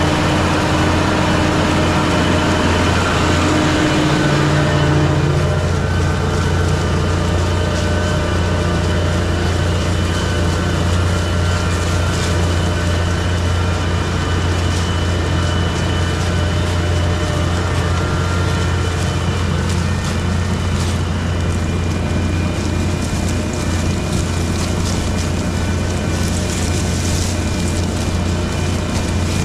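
Diesel engine of a Deutz-Fahr Agrotron 6165 RC Shift tractor running steadily under load as it pulls a plough.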